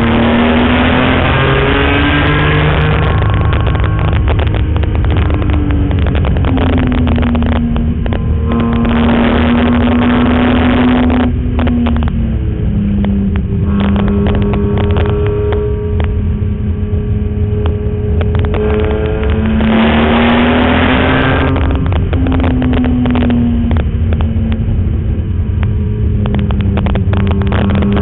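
BMW E46 M3's straight-six engine under hard acceleration on track, its note climbing in pitch and dropping back at each gear change, three main pulls with easing off between them, over steady road and wind noise.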